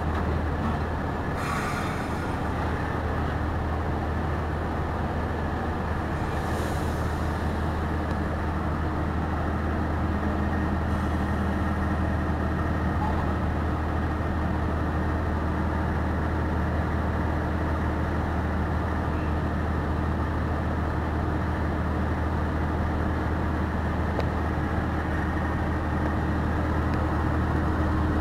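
Passenger train pulled by a diesel locomotive, running steadily after leaving the station: a steady low engine drone with the rumble of the cars on the rails. Two short hisses come in the first few seconds.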